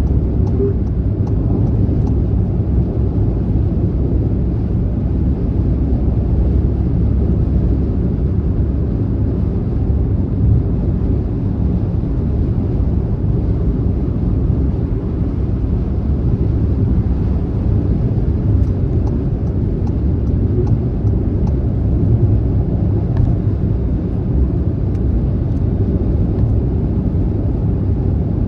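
Car travelling at speed on a motorway: a steady, low road and tyre rumble with no changes.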